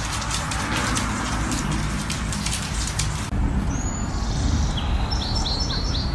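A dense run of sharp clicks and crackle. After a sudden change about three seconds in, a low outdoor rumble with a bird chirping: one call, then a quick series of four or five short falling chirps near the end.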